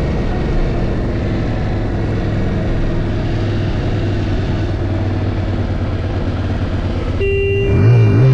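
Voge DS625X motorcycle's parallel-twin engine running steadily on the move. About seven seconds in, the sound changes abruptly and the revs rise and fall.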